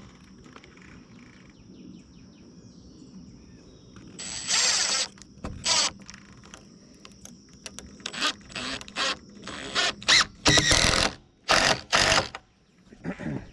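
Power driver running a screw into a 2x6 rafter in a series of short bursts, the longest about two-thirds of the way through. A steady high insect drone sounds behind it.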